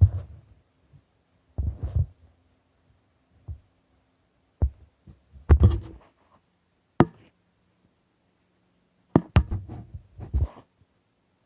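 A series of irregular dull knocks and bumps, about eight in all, some with a brief papery rustle, separated by quiet gaps: handling noise from paper and objects being moved near the microphone.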